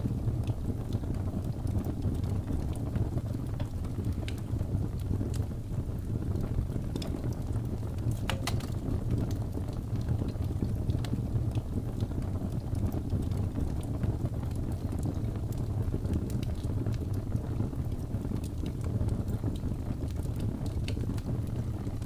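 Wood fire burning with a steady low rumble and scattered crackles, and a brief cluster of sharper pops about eight seconds in.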